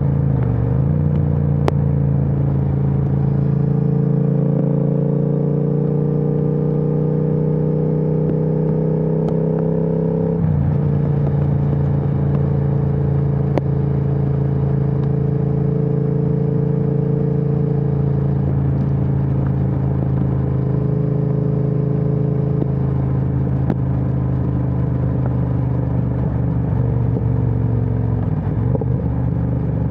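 Triumph Speed Twin 1200's 1200 cc parallel-twin engine running through a Vance & Hines aftermarket exhaust while riding. The engine pulls with slowly rising pitch for about ten seconds, drops sharply as it shifts up a gear, then cruises steadily, with a brief dip in the engine note near the end.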